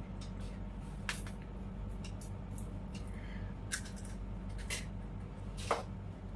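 A few short, crisp cracks and clicks, about four in all, over a steady low hum: hollow fuchka (pani puri) shells being cracked open and handled as they are filled and fed.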